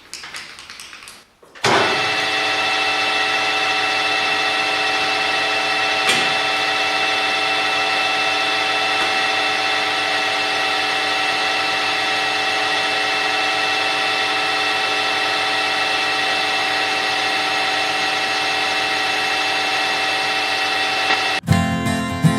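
Metalworking lathe switched on about two seconds in and running steadily, a constant whine of several fixed tones, set at slow revs for turning a nylon bar. A single click about six seconds in. Guitar music starts near the end.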